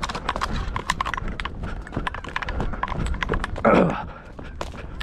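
Quick crunching steps through dry corn stubble, an irregular run of crackles and snaps. About three-quarters of the way through comes one short, louder vocal sound.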